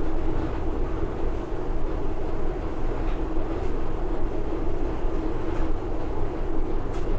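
Steady mechanical rumble with a constant hum, with a couple of faint ticks.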